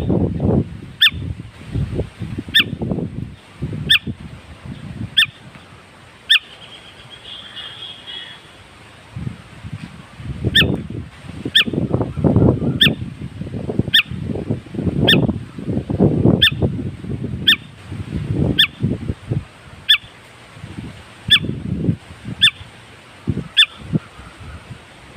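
A bird calling: a short sharp note repeated about once a second, with louder, lower sounds coming in irregular bursts and a brief trill about eight seconds in.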